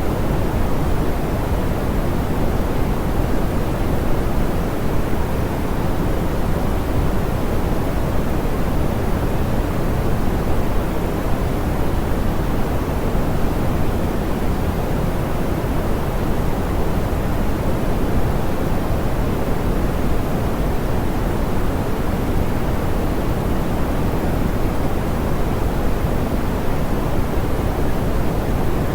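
Steady, soft pink noise: an even hiss, heavier in the low end and rolled off at the top, with no change.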